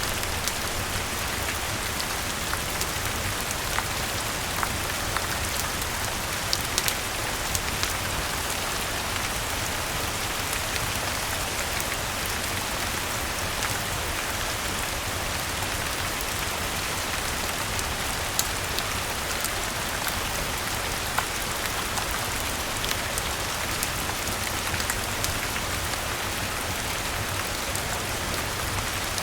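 Steady rain falling, with scattered sharp ticks throughout and a steady low rumble underneath.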